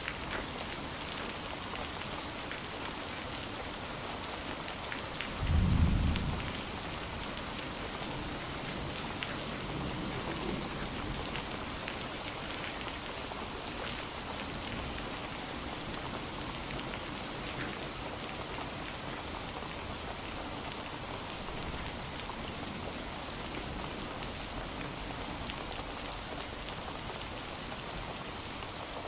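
Steady rain falling on surfaces, with a loud clap of thunder about six seconds in and a fainter rumble a few seconds after.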